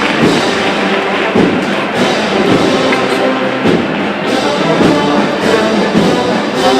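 Brass band with drums playing a Holy Week processional march, its notes held over repeated drum beats.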